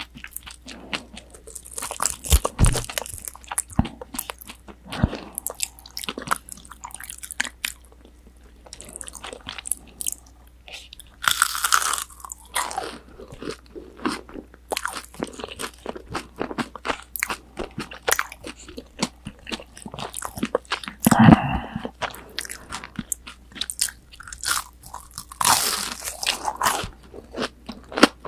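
Close-miked chewing of crispy breaded tonkatsu (deep-fried pork cutlet): a steady run of crunchy crackles, with louder crunching bites now and then.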